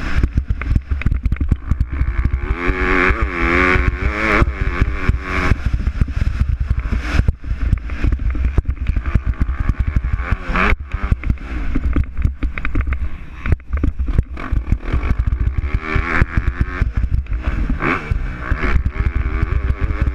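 MX2 motocross bikes racing on the track, their engines revving up and dropping back again and again as riders accelerate and shift.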